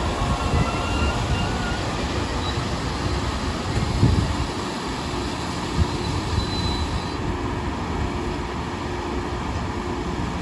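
Long Island Rail Road train running past on the rails, a steady rumble of wheels with a few knocks. Faint thin squeals run through the first seven seconds and then fade.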